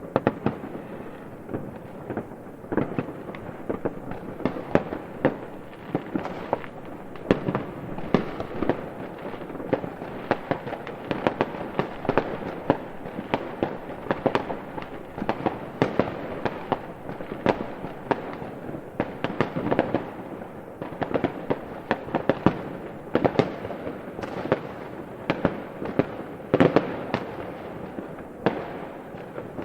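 Fireworks going off continuously: a dense, irregular run of sharp bangs and crackles, several a second, over a steady rumble of echoing booms.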